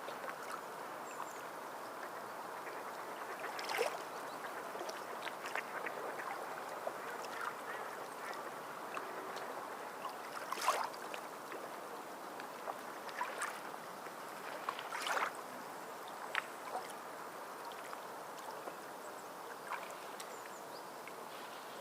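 Water lapping and gurgling steadily, with a few short sharp splashes scattered through.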